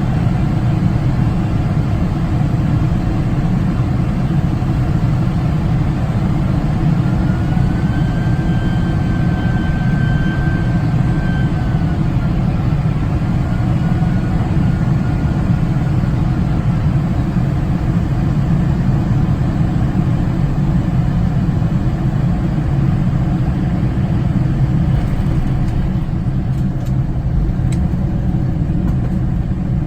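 Steady low cabin drone of a Boeing 747 airliner's engines and airflow heard on board during landing. A faint thin whine rises about seven seconds in, holds for a few seconds, then drops and fades away, and a few faint clicks come near the end.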